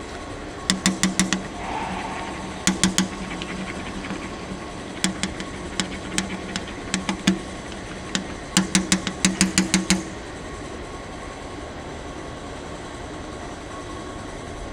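Railway coach wheels clacking over rail joints, in quick runs of sharp clicks every couple of seconds over a steady rumble. The clicks stop about ten seconds in, leaving the rumble.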